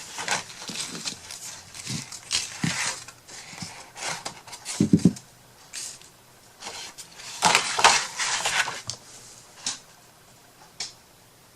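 Paper and craft materials being handled and cut at a work table: irregular rustles and scrapes, with a longer run of them about seven to nine seconds in and a brief low pitched sound about five seconds in.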